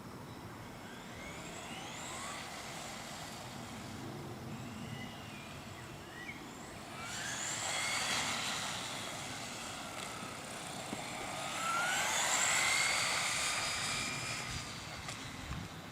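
Electric motor whine of 1:10 radio-controlled cars, rising and falling in pitch as they accelerate, slow and pass. It swells loudest about seven to nine seconds in and again around twelve to fourteen seconds.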